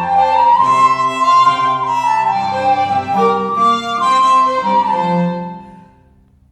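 Three-part instrumental setting of a Greek folk tune, several melodic lines moving together, playing its closing bars; the final notes die away about six seconds in.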